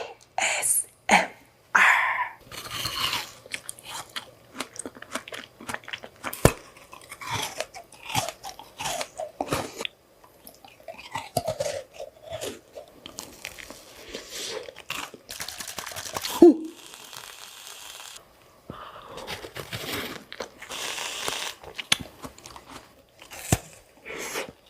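A person biting into and chewing crunchy frozen fruit, with irregular sharp crunches and chewing sounds throughout.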